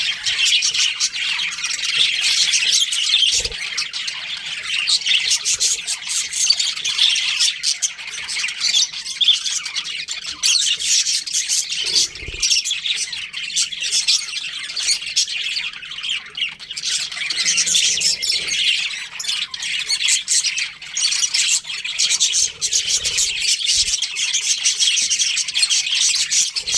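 A colony of budgerigars chattering and chirping, many birds at once in a dense, continuous twitter.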